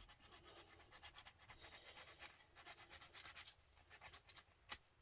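Faint hand file scraping over a joint on a copper pipe in quick, irregular strokes, cleaning it back to bare copper to check for solder. A single sharp click near the end.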